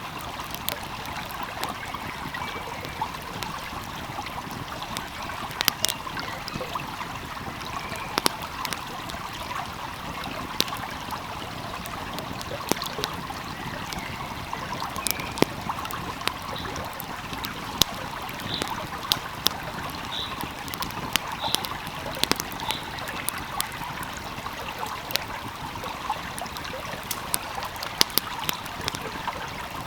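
A flowing stream's steady rush of water, with frequent sharp crackles and pops from a burning wood fire.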